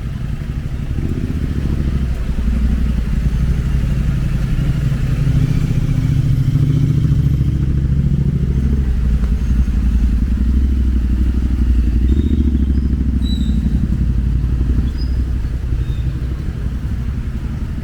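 A motorcycle engine running steadily, a low rumble that grows louder through the middle and eases off near the end.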